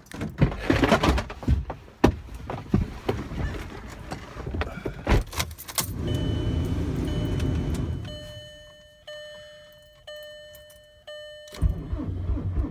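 Keys jangling and knocks inside a car, then a steady rush for about two seconds, then a dashboard chime ringing about once a second. Near the end the starter begins cranking the cold 2001 VW Jetta TDI's 1.9 ALH four-cylinder diesel with a fast low pulsing, an engine starting without a block heater in 19°F cold.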